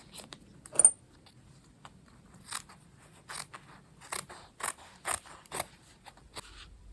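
Scissors cutting out a drawn fabric circle: a string of short, separate snips, one every half second to a second, the loudest about a second in.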